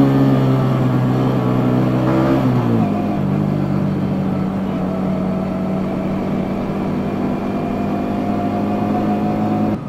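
Yamaha Jupiter MX-150's single-cylinder four-stroke engine running through its stock exhaust while riding. The engine note holds steady, drops sharply in pitch about a third of the way in, then holds steady again while slowly climbing.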